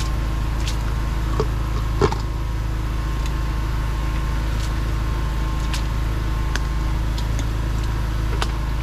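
Engine of a drain-jetting machine running steadily, with a few light knocks and clicks over it, the sharpest about two seconds in.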